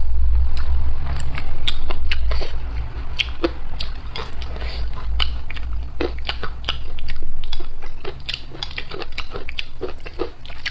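Close-miked chewing of a mouthful of mixed rice noodles, with many short clicks of the mouth and teeth spread irregularly through it.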